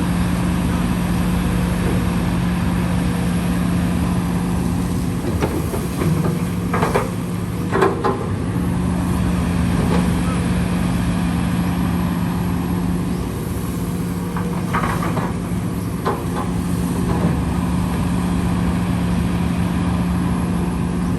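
Heavy machinery engine running steadily, a constant hum, with a few brief higher-pitched sounds twice along the way.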